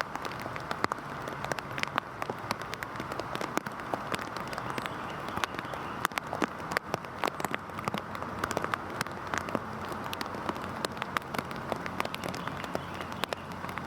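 Heavy rain falling steadily: a dense hiss with many sharp drops ticking close by on a surface.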